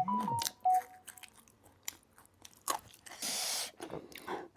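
Close-miked mouth sounds of eating: crunching and chewing, with a short hissing noise about three seconds in.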